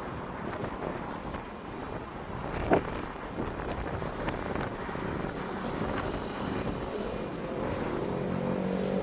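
Wind on the microphone over a steady outdoor rumble, with a single sharp knock about three seconds in. A steady pitched drone begins to swell near the end.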